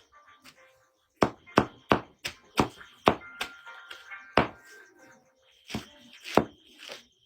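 A blade chopping into wood: about ten sharp strikes, two or three a second at uneven spacing, with faint background music.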